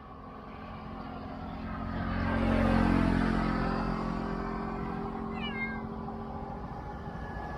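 A cat meows briefly about five seconds in, a short falling call. Under it a motor vehicle passes, growing louder to a peak about three seconds in and then fading.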